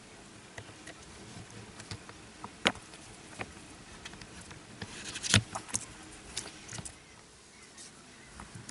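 Small sharp clicks and taps of a phone and small tools being handled during a repair: one sharp click a little under three seconds in, and a quick flurry of clicks about five seconds in.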